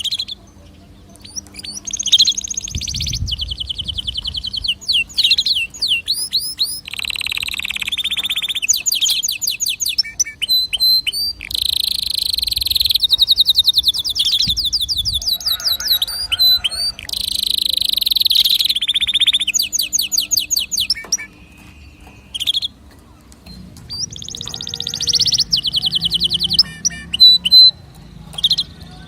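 Domestic canary singing: long phrases of very fast trills and rolls, high-pitched, with a short pause about three-quarters of the way through.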